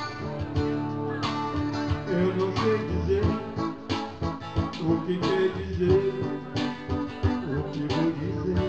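Live instrumental guitar music: chords strummed over and over, with a melody line weaving over them from about two seconds in, and no singing.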